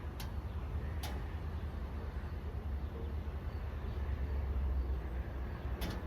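Low rumble of an approaching Long Island Rail Road train, swelling a little near the end, with three short sharp clicks.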